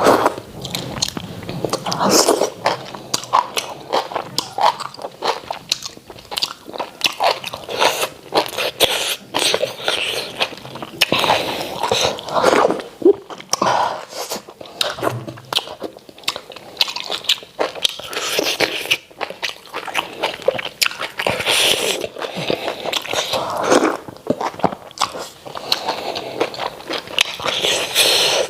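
Close-miked messy eating: continuous open-mouthed smacking and wet chewing of starch with white soup, a steady run of sticky mouth clicks.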